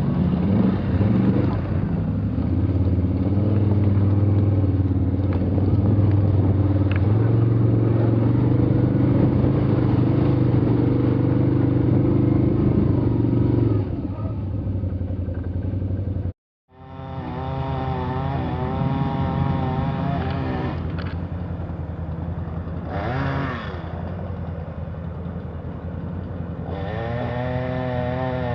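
A motor vehicle engine running steadily. After a brief cut about halfway through, it runs again with its pitch wavering up and down.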